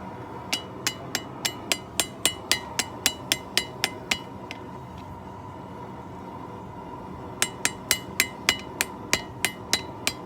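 Hand hammer striking hot steel on an anvil in steady, ringing blows, about three to four a second, widening out a knife blank. The hammering stops for about three seconds in the middle, then resumes, over a steady hum.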